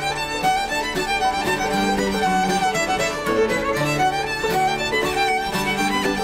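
Fiddle music with quick runs of notes over a steady accompaniment, in a bluegrass or country style.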